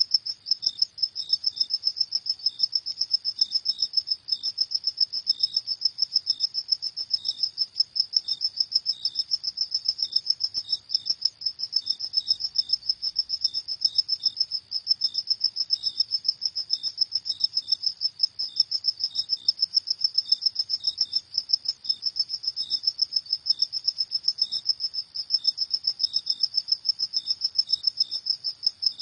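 Crickets chirping at night in a steady chorus of rapid, high-pitched pulses, with a second, lower-pitched cricket chirping in short separate bursts among them.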